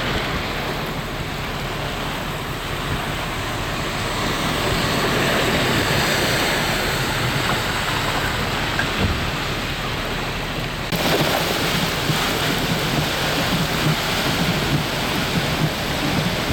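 Heavy rain pouring from a severe thunderstorm: a loud, even hiss. About eleven seconds in the sound changes abruptly, with more low rumble after.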